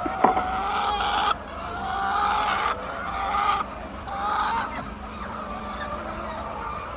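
Chickens calling: a string of drawn-out, pitched calls about a second each, one after another, dying down after about five seconds.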